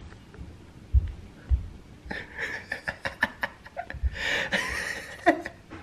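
Labrador puppy whining and crying in short high-pitched whimpers, the longest about four seconds in, with a few low thumps.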